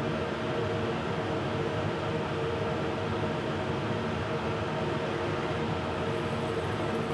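Makita router spinning on a CNC machine, a steady high whine over a rough mechanical hum.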